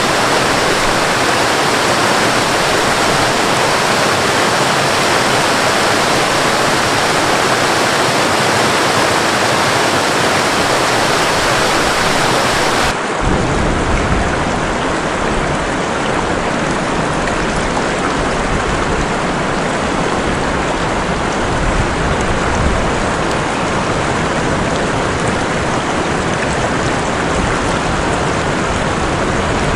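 Waterfall rushing steadily. About halfway through it cuts abruptly to a different recording of steady rain with a deeper rumble.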